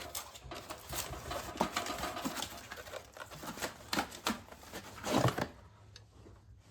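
A run of irregular light clicks, taps and rattles in a small room, with one heavier knock about five seconds in, after which it goes quieter.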